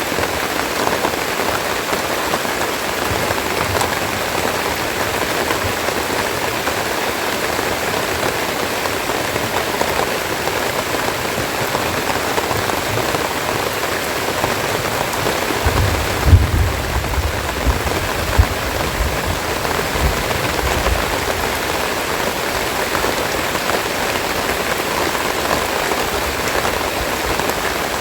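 Steady rain falling, an even hiss, with a few low bumps a little past the middle.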